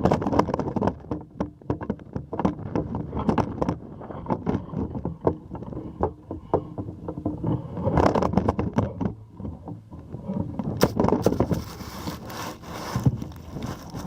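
Strong wind buffeting the microphone in uneven gusts, with irregular knocks, clicks and scraping mixed in.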